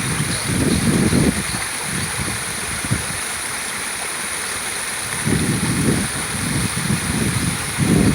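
Small waterfall, water rushing and splashing steadily. Irregular bursts of low rumble come about half a second in and again from about five seconds in.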